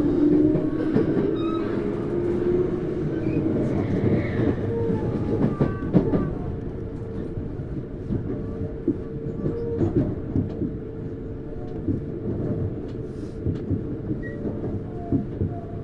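Running sound inside a Tokyu Series 9000 electric train's motor car, which has Hitachi GTO-VVVF traction control. A motor whine rises in pitch over the first couple of seconds and then fades. A steady tone sets in about six seconds in, over a rumble with wheels clacking at rail joints.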